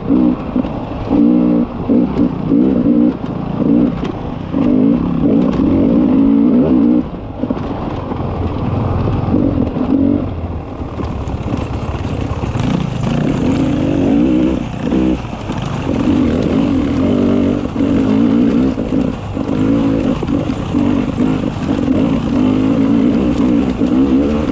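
Beta 300 RR two-stroke enduro motorcycle engine revving hard and dropping off again and again as the throttle is opened and chopped along a rough trail, with scattered knocks and rattles.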